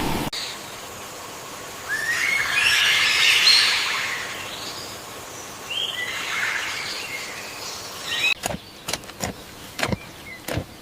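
Two bursts of high, chirping animal calls, then a run of sharp, irregular clicks near the end.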